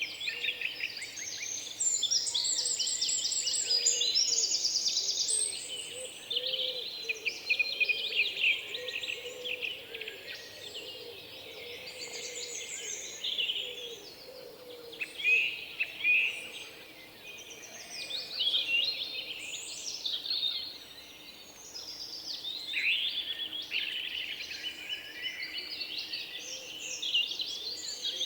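Many small birds chirping and chattering at once: a dense, continuous chorus of rapid high trills and squeaky calls that briefly thins twice.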